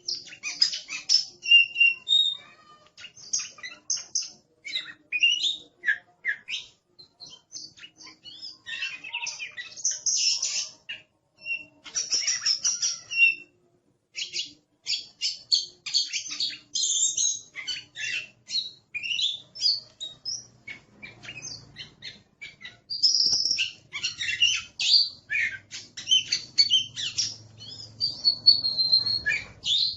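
Oriental magpie-robin (kacer) singing in an aggressive mood: a fast, dense run of high chirps, clear whistles and short sharp notes with hardly a pause.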